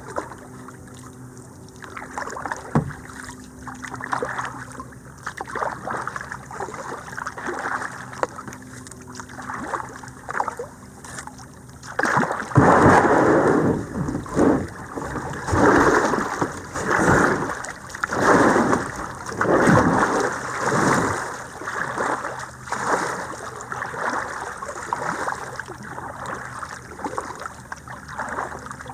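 Kayak paddle dipping and splashing through creek water: a run of even strokes about one a second through the middle, with softer water splashing and swishing before and after.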